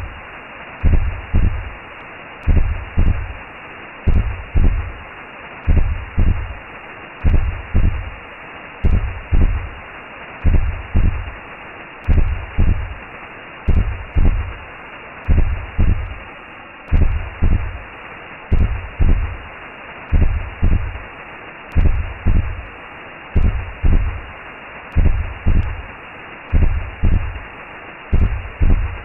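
Recreated womb sound: a slow heartbeat thudding in pairs, about one double beat a second, over a steady low whooshing hiss.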